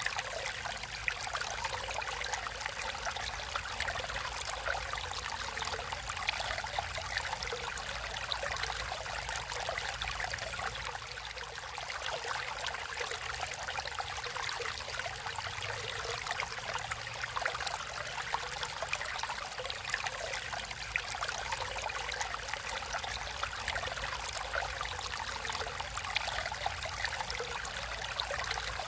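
Water flowing and trickling over rocks in a natural stream, a steady babbling with small splashes.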